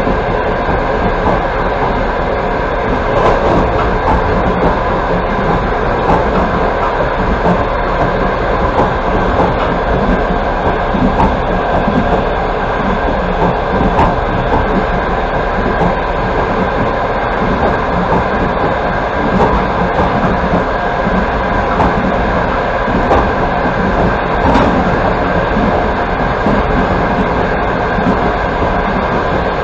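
Passenger train running at speed, heard from on board: steady wheel-on-rail running noise with faint irregular knocks from the wheels.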